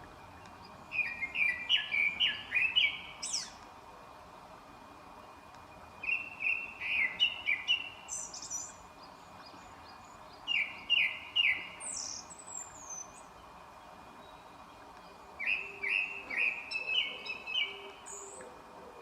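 Wild songbird singing in forest: a short phrase of quick, falling whistled notes repeated four times, a few seconds apart, with thinner high-pitched calls from another bird in between.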